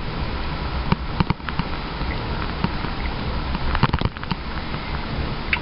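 Truck cabin noise while driving: a steady low engine and road rumble, with scattered sharp clicks and rattles about a second in and again near four seconds.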